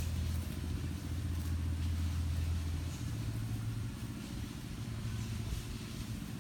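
A steady low rumble with a hum in it, strongest for the first three seconds and then a little weaker.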